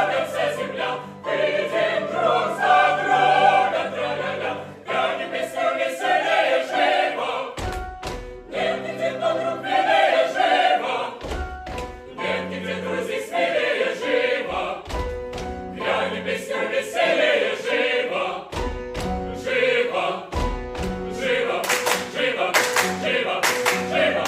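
Choir singing an operetta number with instrumental accompaniment, marked by deep low beats every few seconds.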